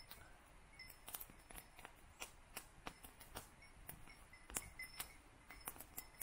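Small kindling fire crackling faintly: irregular sharp snaps and pops, the loudest a little past halfway.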